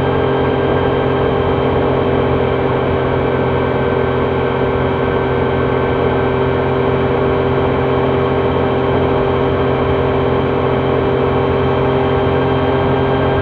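Triumph Trident 660's three-cylinder engine running at a steady, unchanging engine speed, with no revving or gear changes.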